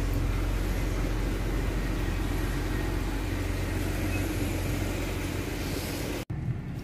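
BMW 6 Series coupe idling: a steady low engine rumble that cuts off abruptly near the end.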